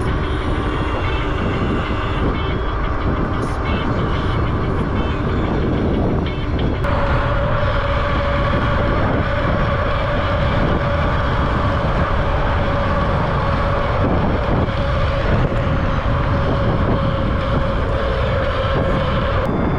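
Wind rushing over the microphone and tyre and road noise from a Kingbull Ranger e-bike riding along. A steady hum joins about a third of the way in and holds until near the end.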